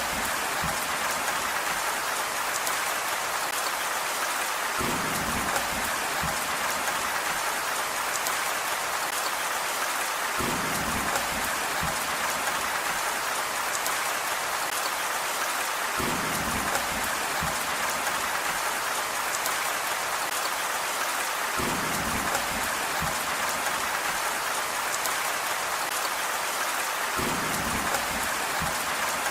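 Steady rain hiss, dense and even. A short low rumble comes back about every five and a half seconds.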